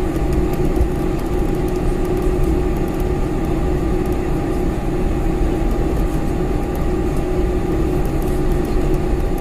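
Steady cabin noise of a Boeing 747-400: an even rumble of engines and airflow with a constant low hum, unchanging throughout.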